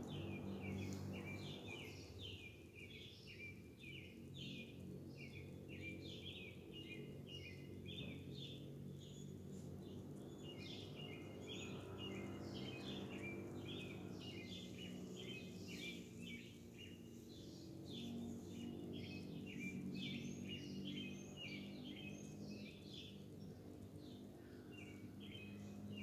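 Small birds chirping and singing in quick runs of short, high notes, almost without a break, over a steady low background hum.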